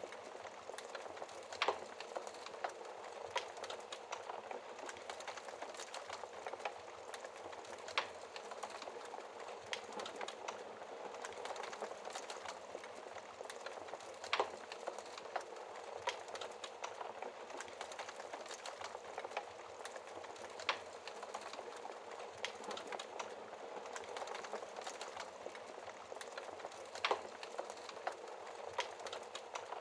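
Wood fire crackling: a steady fine crackle of burning wood with many small snaps, and a louder sharp pop about every six seconds.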